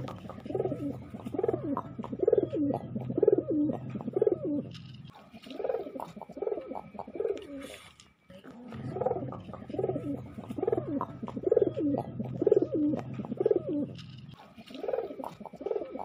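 Domestic pigeon cooing: a run of repeated rolling coos, about one a second, a short lull about halfway through, then another run of coos.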